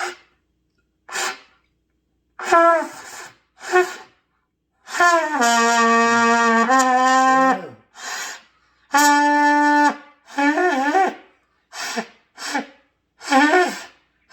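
Beginner playing a trumpet: several short, separate notes, then a longer phrase of held notes stepping in pitch, then more short notes, several with a wavering start. The notes keep breaking off because the player's breath is still short.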